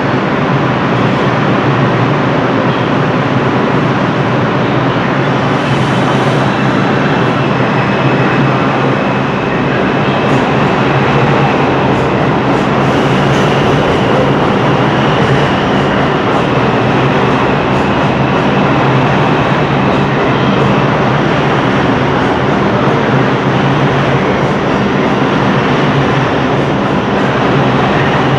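Train running on the rails: a loud, steady rumble and rail noise, with a faint high whine in the middle.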